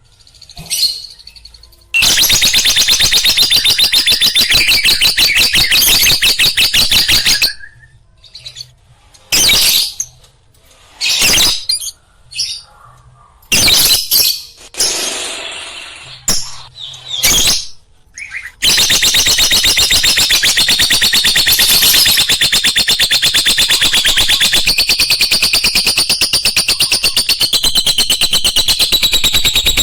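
Lovebird chattering in fast, high-pitched runs: a long unbroken run early on, then short broken bursts, then another continuous run from about two-thirds of the way through.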